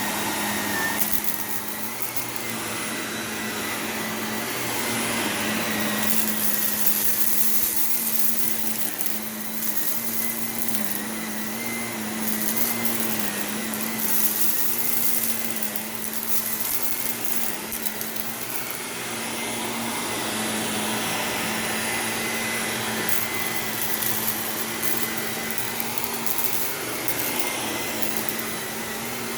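Shark Navigator Lift-Away NV351 upright vacuum running steadily over carpet, its motor humming low with a faint high whine under the rush of suction. Intermittent crackle of grit and debris is sucked up as it passes over crunchy spots.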